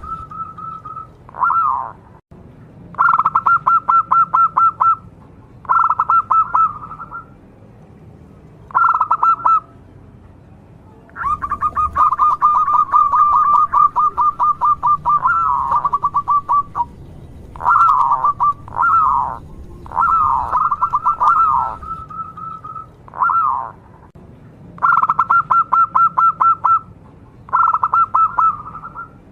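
Zebra dove (local perkutut) singing: phrases of rapid staccato coos, each from under a second to a few seconds long, repeated about a dozen times with short pauses.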